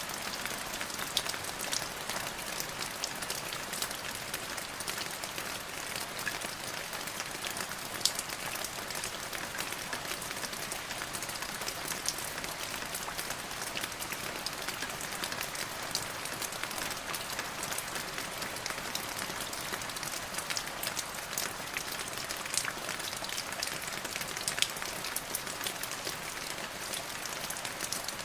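Steady rain falling, with the patter of individual drops hitting a surface heard as many sharp ticks over an even hiss.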